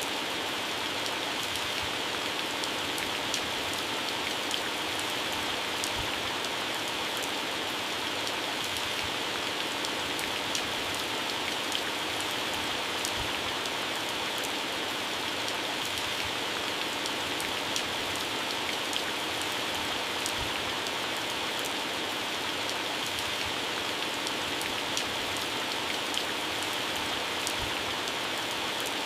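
Heavy rain falling steadily on plants and grass, with scattered sharp drips of drops hitting leaves.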